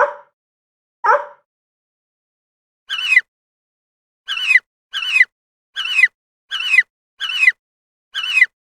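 Animal calls: two short calls, then a run of shorter, higher-pitched calls repeated evenly about every three-quarters of a second, each a quick falling note, with complete silence between them.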